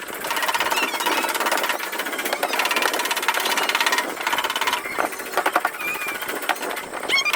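Fast, continuous tapping on a car's sheet-metal body panel during paintless dent repair, about two pauses near the end, with a few brief high squeaks.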